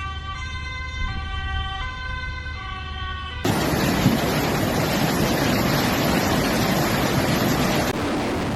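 An emergency vehicle's two-tone siren, alternating between two pitches, cut off abruptly about three and a half seconds in by a louder, steady rushing noise.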